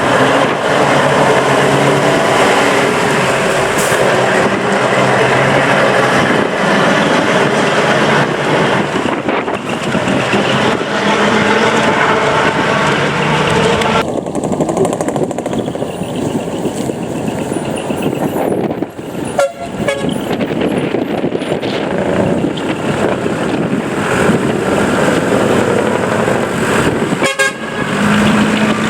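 Decorated heavy trucks (dekotora) running loudly as they pull out one after another, with horn toots among the engine noise. About halfway through the sound changes abruptly.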